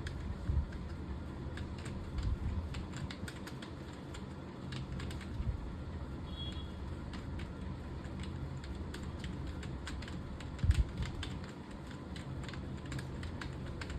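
Typing on a computer keyboard: a steady, irregular run of quick key clicks, with a few low thumps, the loudest about three quarters of the way through.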